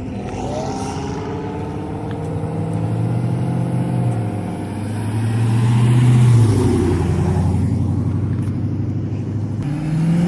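Car engine accelerating past, its pitch climbing and growing loudest about six seconds in, then settling to a lower, steadier note.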